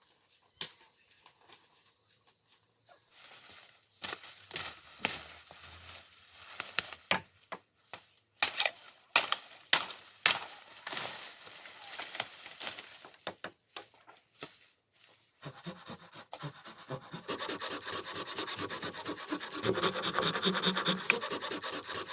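Timber being handled and worked by hand: scattered knocks and scrapes of wood, then several seconds of dense, rapid scraping near the end.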